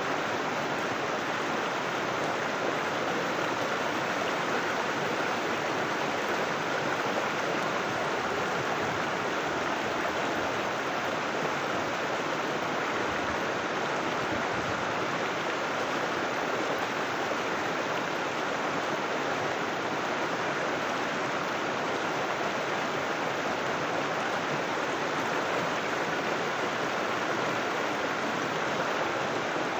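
River water flowing and rushing steadily, an even unbroken babble of running water.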